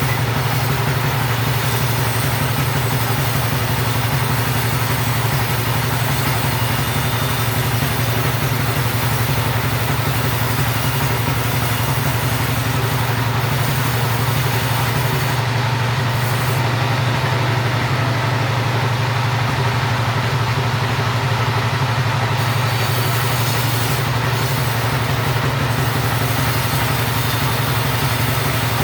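Chainsaw engine running steadily while sawing timber, with an even, unbroken hum.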